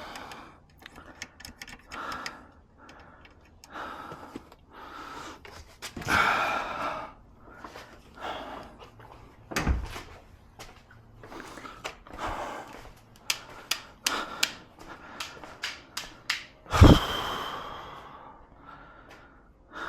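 Car interior trim being taken apart by hand: scattered clicks, knocks and rustling from panels and tools, with two heavier knocks about ten and seventeen seconds in.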